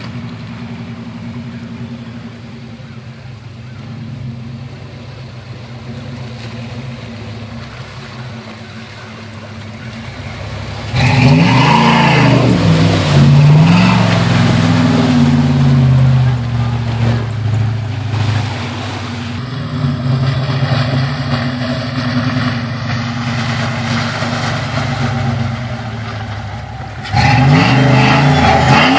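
Pickup truck engine running steadily, then revved hard about eleven seconds in and again near the end, the pitch rising and falling, with a rush of noise from the wheels churning through water and mud.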